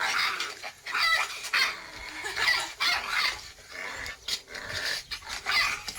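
Jindo dogs snarling and yapping at each other in a squabble, in quick, rough, high-pitched bursts a few times a second.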